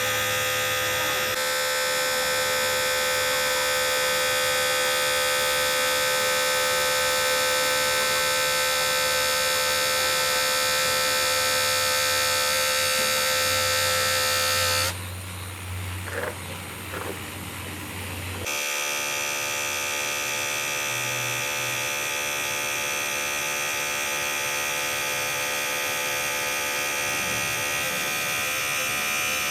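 A steady machine buzz or whine made of many fixed tones. It changes abruptly about a second in, drops away about 15 seconds in, and comes back with a different pitch about three and a half seconds later.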